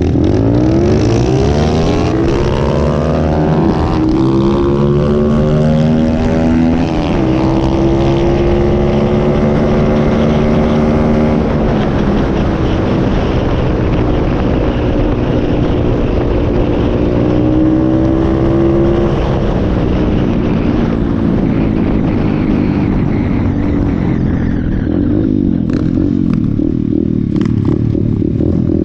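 125cc pit bike engine running hard under throttle. Its pitch climbs and drops repeatedly as the rider accelerates, shifts gear and backs off, then settles lower about 24 seconds in. A few short clattering knocks come near the end.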